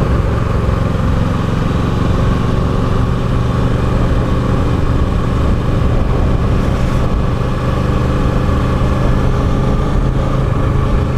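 Kawasaki Ninja 650's parallel-twin engine running steadily at low speed as the motorcycle cruises, with no revving.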